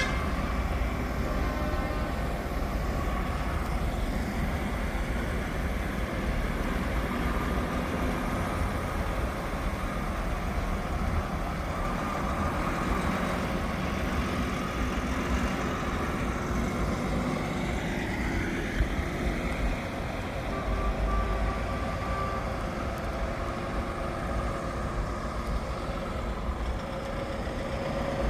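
Heavy trucks driving past with their diesel engines running, a continuous low rumble that rises and falls in pitch about two-thirds of the way through.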